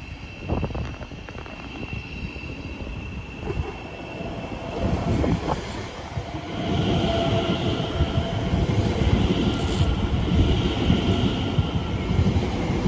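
A train passing through the station without stopping, its rumble growing louder about six and a half seconds in, with steady high tones ringing over it.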